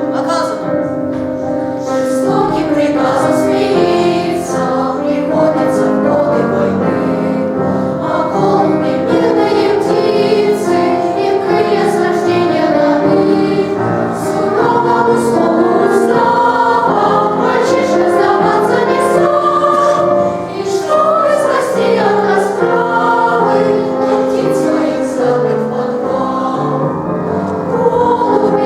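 Boys' choir singing a song.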